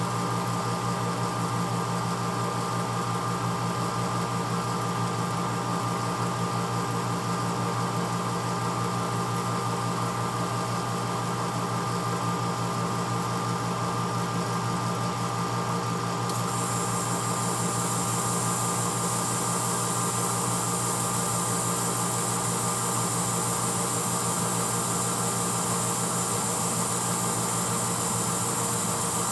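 1986 Hotpoint Potwasher dishwasher running mid-cycle: a steady motor hum under a noisy wash sound. About halfway through, a higher hiss comes in and stays.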